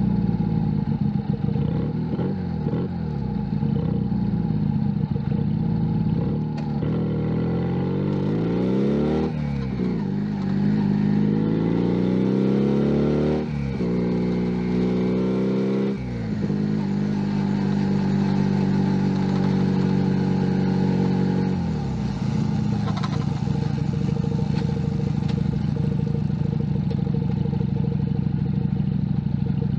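Junak M11 Cafe's 125 cc single-cylinder four-stroke engine under way, revving up and dropping back at a run of gear changes in the middle. It then runs at a steady note, stepping down to a lower steady note about two-thirds in.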